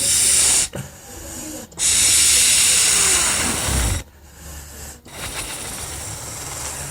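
A person blowing hard to inflate a toy color balloon, the breath rushing close to the microphone: a short strong blow, then a longer one of about two seconds, with softer breathy hissing between and after.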